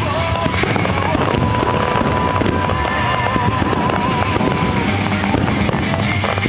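Fireworks shells bursting and crackling in quick succession over the show's accompanying music, in which a long wavering note is held for about four and a half seconds.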